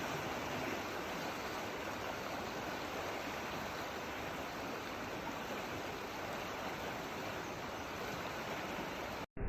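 Steady rushing water, an even hiss with no rhythm, breaking off suddenly near the end.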